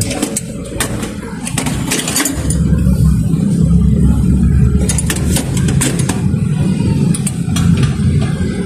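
Toyota Revo's 7K four-cylinder petrol engine running, its low rumble growing louder about two seconds in and then holding steady, with scattered sharp clicks from work in the engine bay.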